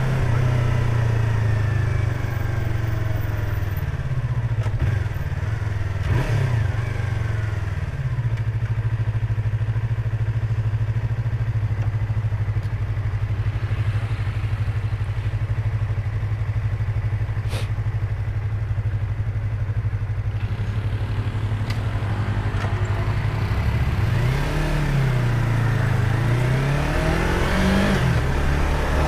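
Yamaha YZF-R25's 250 cc parallel-twin engine and exhaust, heard through a microphone inside the rider's helmet. The pitch falls as the bike slows at first, holds a steady note for much of the middle, then rises and falls repeatedly near the end as the rider accelerates through the gears.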